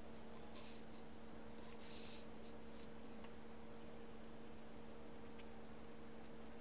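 Paintbrush strokes of gouache on paper: a few short, soft swishes in the first three seconds, then fainter light taps and scratches. A steady low electrical hum runs underneath.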